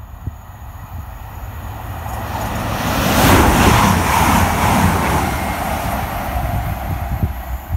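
Diesel express passenger train passing the platform at speed. It is a steady rush of wheel and engine noise that builds over the first few seconds, is loudest about three to four seconds in, then slowly fades.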